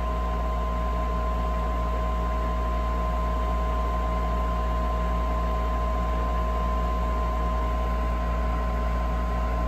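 Gas furnace running through its ignition sequence, the draft inducer motor giving a steady hum with a constant whine while the igniter heats and the gas valve has not yet opened.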